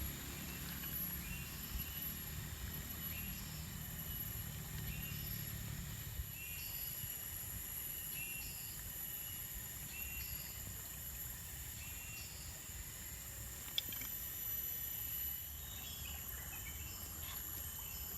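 Rainforest ambience: a steady high-pitched insect drone, with a short chirping call repeating about once a second. A low rumble fades out about six seconds in, and there is a single sharp click near the end.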